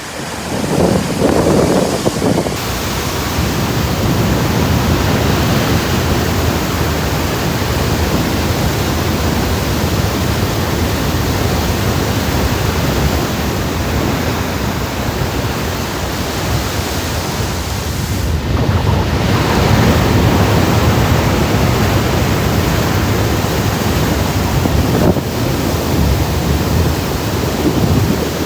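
Loud, steady rushing of water splashing and spraying around a car driving through deep water, with brief dips about 18 and 25 seconds in.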